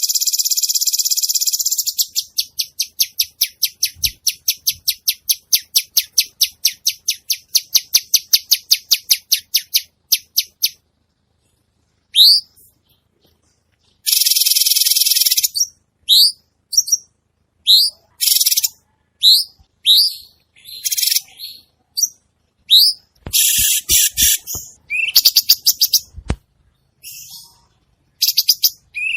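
A cucak cungkok singing a loud, varied song. It opens with a dense, buzzy trill and a long run of rapid repeated notes, then moves to another buzzy burst and a series of short upward-sweeping whistles, with a few faint low thumps between phrases.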